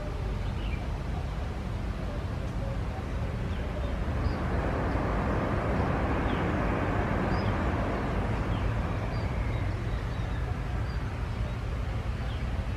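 Jet airliner engine noise that swells to a peak in the middle and eases off, over a steady low rumble.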